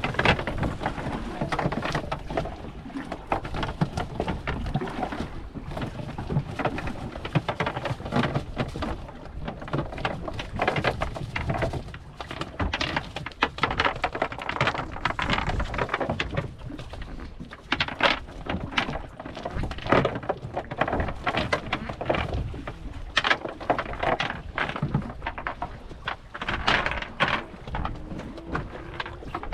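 Strong wind buffeting the microphone with an irregular crackle and low rumble, mixed with waves splashing against a small boat.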